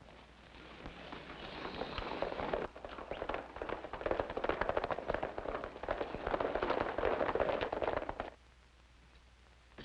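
Hoofbeats of many horses at a gallop, a mounted troop riding in: a dense clatter that builds louder for several seconds and stops abruptly about eight seconds in.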